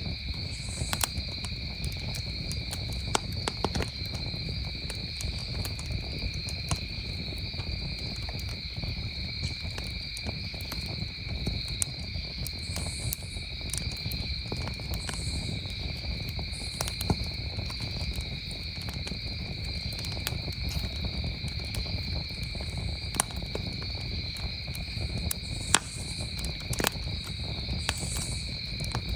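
Campfire crackling, with irregular sharp pops and a low rumble of burning wood, over a steady chorus of crickets trilling.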